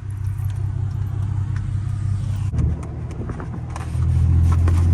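Car running, a steady low rumble that gets louder about four seconds in, with a few faint clicks over it.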